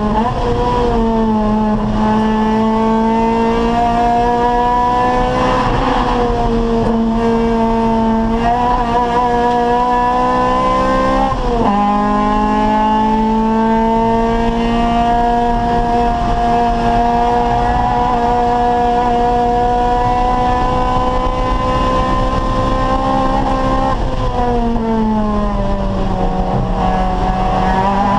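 Acura Integra Type R's four-cylinder VTEC engine running hard at high revs under racing load. Its pitch climbs steadily and drops sharply a few times at gear changes and braking before climbing again.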